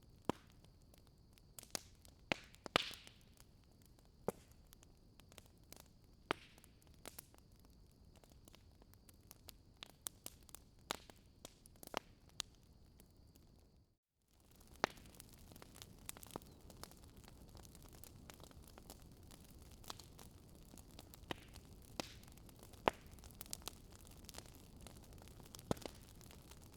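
Fire crackling: irregular sharp pops and snaps over a soft hiss, with a faint high steady whistle in the first half and a brief gap about halfway through.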